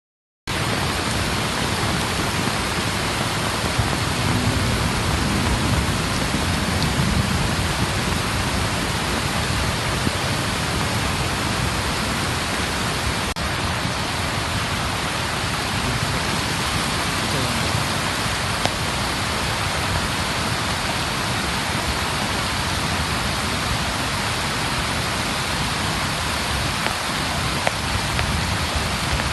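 Flood water rushing steadily, a dense unbroken noise with no rhythm, starting abruptly about half a second in.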